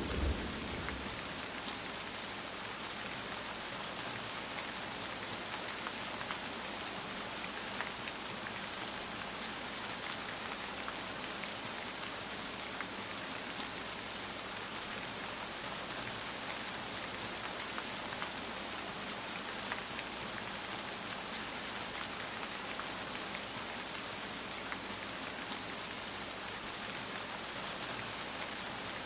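Steady rain falling, with faint scattered drop ticks. The low rumble of a thunderclap dies away in the first second.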